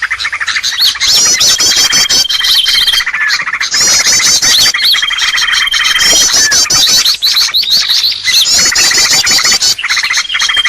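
Bird-lure recording of small birds: dense, fast chirping and chattering, with a long thin whistle held at one steady pitch that comes back three times.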